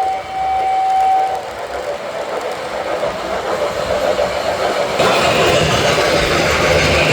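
A model train's whistle holds one steady note that cuts off about a second and a half in, over the steady running sound of the train on its track, which grows louder about five seconds in.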